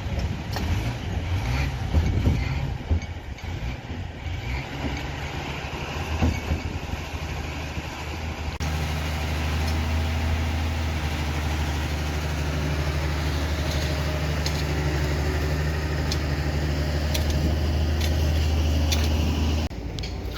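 Heavy diesel machinery at work: an engine running with scattered knocks and clanks, then, after an abrupt change, a steady low engine drone with light clicking that changes suddenly again near the end.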